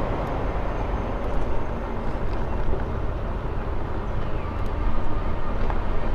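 Steady wind buffeting and rumble on the microphone of an electric bike riding along a street.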